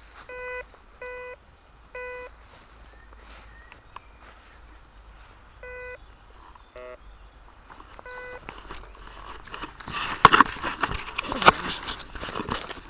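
Metal detector giving five short, identical beeps at irregular intervals, then a brief warbling tone: the detector's target-ID audio, which the detectorist takes for a pull-tab signal. In the last few seconds, louder crackling, scraping and knocks take over.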